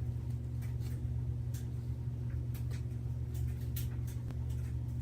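Disposable diaper being ripped open and handled, with short irregular crinkles and crackles of its plastic and padding, over a steady low hum.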